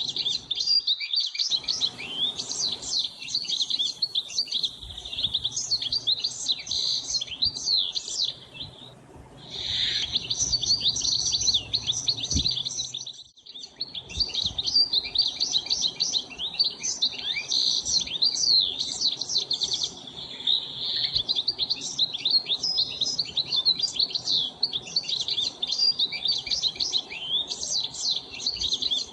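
A dense chorus of many small birds chirping rapidly and continuously in high, overlapping notes, dropping away briefly about nine seconds in and again about thirteen seconds in.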